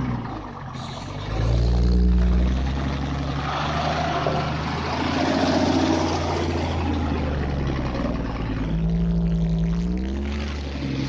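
Truck engine running under load as the truck crawls over uneven ground, revving up about a second in and rising in pitch again near the end.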